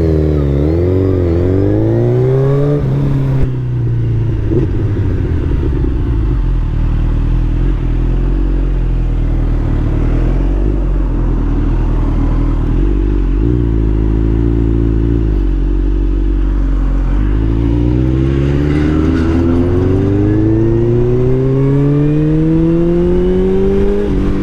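Suzuki Hayabusa's inline-four engine running loud through an Akrapovič 4-into-1 full exhaust system. The revs dip and climb in the first few seconds, hold steady for a long stretch, then climb steadily through the last several seconds.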